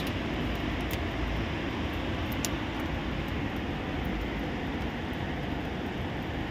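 Heavy rain falling, a steady roar with a low rumble underneath.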